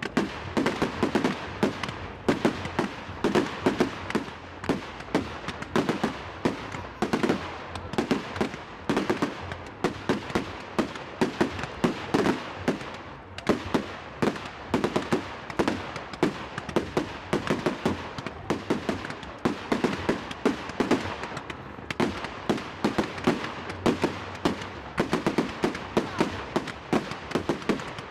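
A firework display going off: a continuous run of bangs and crackling reports, several a second, with louder clusters throughout.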